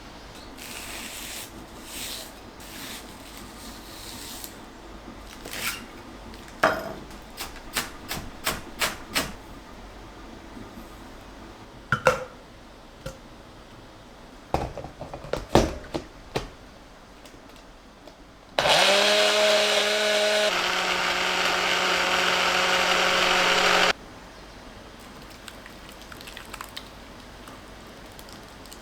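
A small electric motor runs for about five seconds, starting with a short rise in pitch, dropping to a lower steady pitch partway through and cutting off suddenly. Before it come scattered clicks and knocks.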